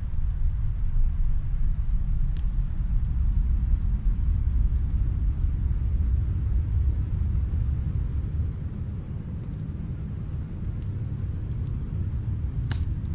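Fireplace crackling, with scattered sharp pops, a louder one about two seconds in and another near the end, over a steady low rumble.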